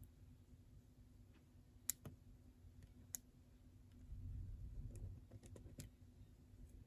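Near silence with scattered faint clicks and taps of a pen while drawing; two sharper clicks come about two and three seconds in, with a low rumble a little later.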